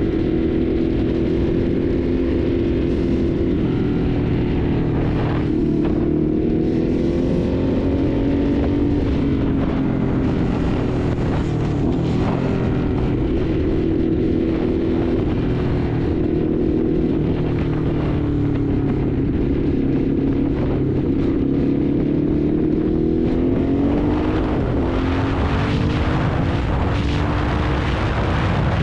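Ducati Hypermotard's L-twin engine running under way, its pitch rising and falling gently with road speed and dipping several times as the throttle eases off.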